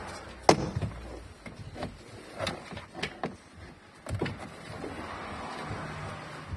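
Sharp clicks and knocks of parts and tools being handled inside a car during sunroof disassembly, the loudest about half a second in, with a soft hiss in the second half.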